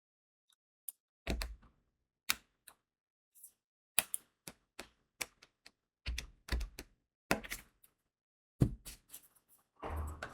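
Diamond painting pen tapping crystal drills onto the sticky canvas: irregular sharp clicks, several with a soft thud beneath. A rattling starts just before the end.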